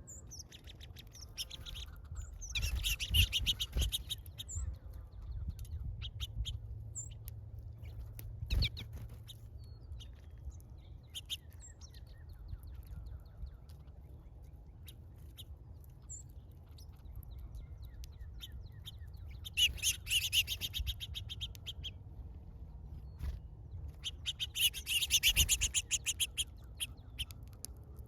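Small birds chirping at a feeder: scattered single chirps, with three bursts of fast, rapidly repeated chirping about 3, 20 and 25 seconds in. A single knock sounds about 8 seconds in.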